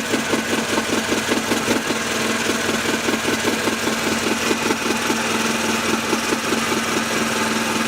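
An engine on board a fishing boat running steadily, with an even, rapid pulsing that holds without change.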